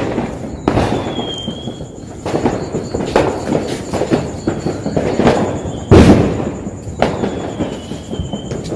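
Homemade firecrackers going off in a string of loud, echoing bangs at uneven intervals, the loudest about six seconds in. A faint high whistling tone sounds twice between the bangs.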